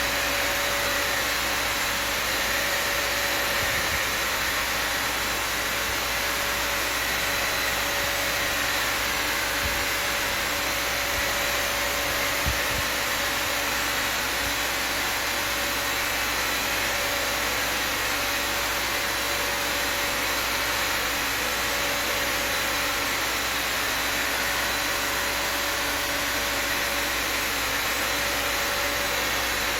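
Vacuum cleaner motor running steadily: a constant rushing hiss with a steady whine.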